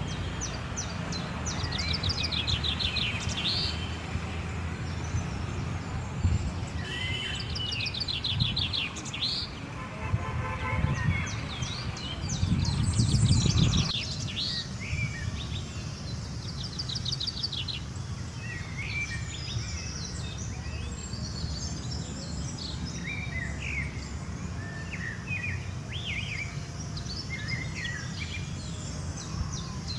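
Birds chirping and singing, with repeated rapid trills and short calls, over a steady low rumble of outdoor background noise that swells briefly about halfway through.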